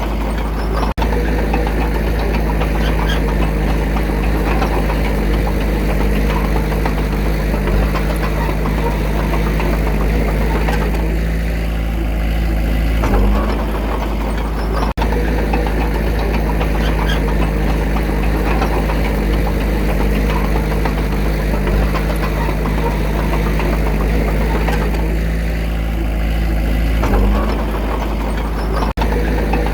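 Diesel engine of an earthmoving machine running steadily under a deep rumble, its pitch shifting briefly twice.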